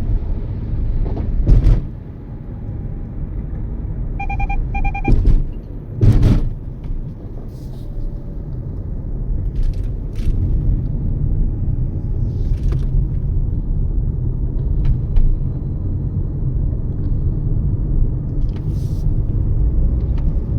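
Steady low road and engine rumble inside a Toyota Yaris at highway speed, with a few sharp thumps. About four to five seconds in come two short electronic beeps.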